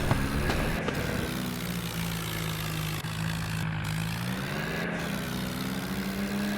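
Swaraj 744 tractor's diesel engine running steadily, with a slight rise in pitch about four seconds in.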